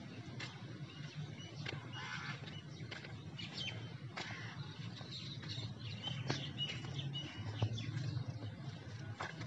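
Small birds chirping in short, scattered high calls over a steady low outdoor rumble, with a few faint clicks.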